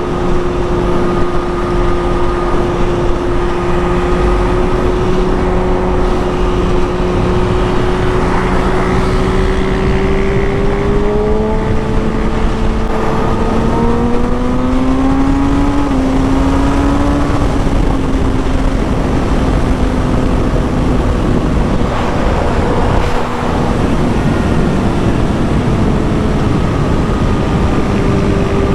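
Kawasaki Ninja ZX-6R inline-four engine running at a steady cruise under heavy wind noise. About eleven seconds in it rises in pitch as the bike speeds up, dips briefly a few seconds later as if shifting up, then settles back into steady cruising.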